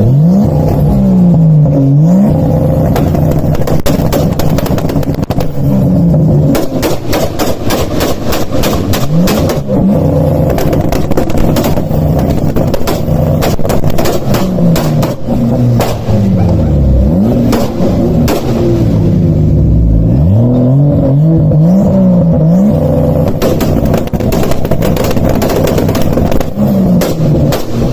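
A Toyota Supra's 2JZ inline-six and a SEAT Leon FR's engine revved hard again and again, the engine note sweeping up and dropping back each time. Rapid crackles and pops run through many of the revs.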